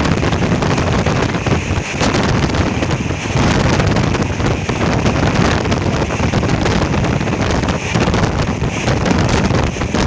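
Wind buffeting the microphone: a loud, continuous deep rushing noise that swells and dips irregularly.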